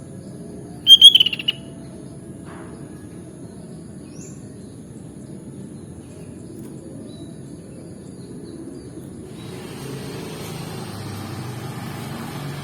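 Sooty-headed bulbul giving one short, loud burst of song about a second in, with a few faint high chirps around it. Beneath it is steady low background noise, and a hiss rises near the end.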